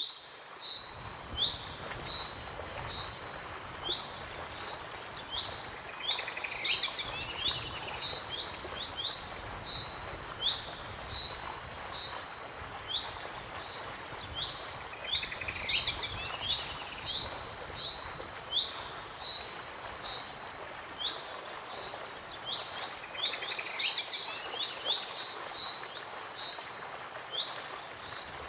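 Songbirds singing: repeated short phrases of quick high chirps and fast trills, coming again every few seconds, over a steady hiss of outdoor background noise.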